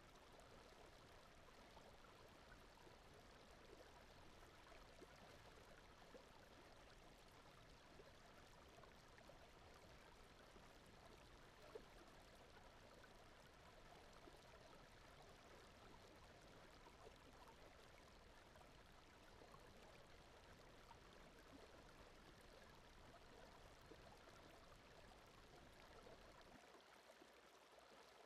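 Faint, steady sleep-noise bed of brown noise mixed with flowing-stream water sounds, with one small click about twelve seconds in. The deep rumble drops away shortly before the end, leaving the lighter water hiss.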